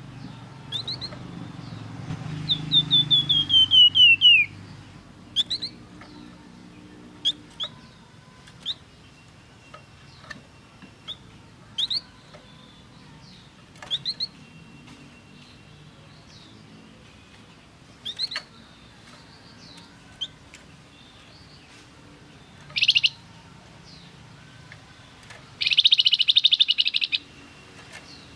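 Songbird of the kind Indonesian bird-keepers call a Flamboyan, singing: short, sharp up-swept chirps, a fast run of falling notes a few seconds in, and harsh rattling bursts near the end.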